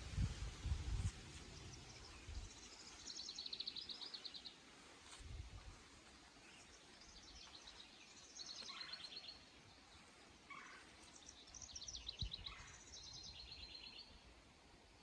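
Songbirds singing in a garden: a short high trilled phrase repeats about every four to five seconds, with thin falling whistled notes between the phrases. A low rumble sounds in the first second.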